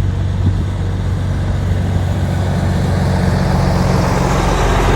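Car engine running steadily, under a hiss of heavy rain that swells and grows louder over the second half.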